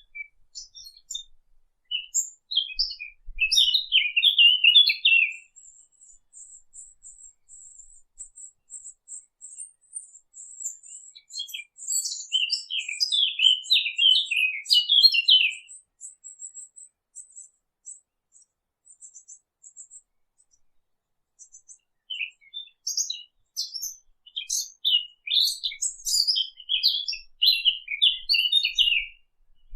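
A Sylvia warbler (the 'fig bird') singing: three bursts of fast, jumbled warbling starting about 2, 12 and 22 seconds in, the last the longest. Between the first two bursts, a thin, very high series of rapid notes runs on in the background.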